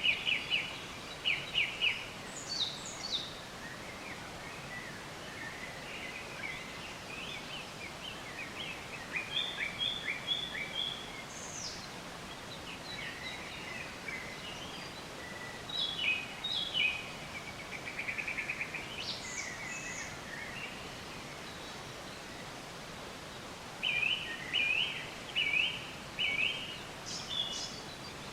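Wild songbirds singing and chirping in short phrases from several directions over a steady background hiss. A run of four quick, repeated notes comes near the end.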